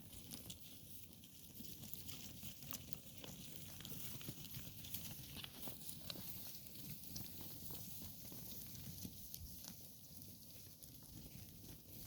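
Sheep and cows grazing close by: faint, scattered small clicks and rustles of cropping grass and shifting hooves.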